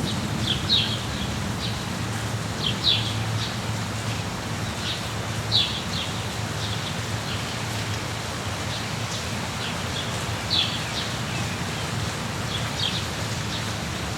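Rainforest ambience: steady rain, with short high bird chirps repeating every second or so, some falling in pitch, over a low steady rumble.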